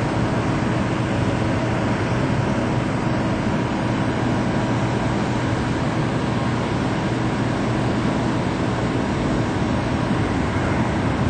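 A steady mechanical drone with a constant low hum under an even rushing noise, unchanging throughout.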